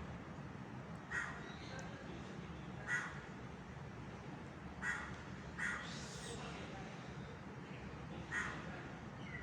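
Crow cawing: five short, harsh caws at uneven intervals, over a steady low background hum.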